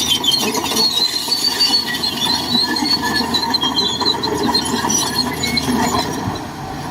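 Shantui DH17C2 crawler bulldozer working, a high, wavering squeal over the steady noise of the machine.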